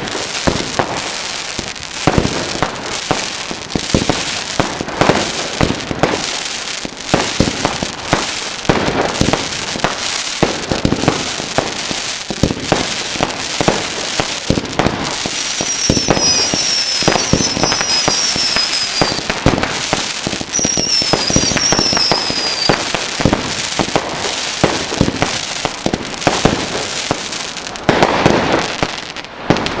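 Fireworks finale: a dense, continuous barrage of bangs and crackling reports. For several seconds in the middle, short high falling whistles sound over the bangs.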